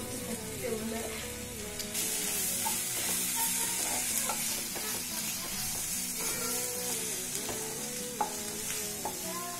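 Sliced onions, green chilies and curry leaves frying in hot oil in a non-stick pan, sizzling while a spatula stirs and scrapes through them. Spice powders have just been added. The sizzle grows louder about two seconds in as the stirring gets going.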